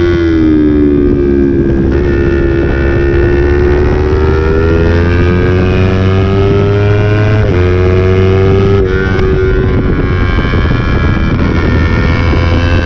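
Yamaha YZF-R25's 250 cc parallel-twin engine running hard at high revs, its pitch sagging and climbing with the throttle, with an abrupt shift in pitch about seven and a half seconds in. Wind rushes over the microphone throughout.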